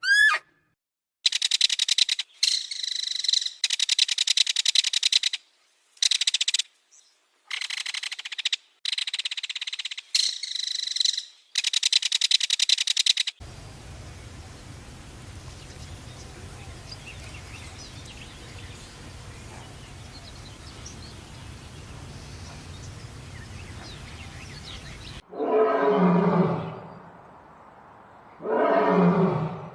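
A run of wild animal calls: about a dozen seconds of loud, harsh, buzzing calls in repeated bursts, then a stretch of steady background noise, then two deep roars near the end.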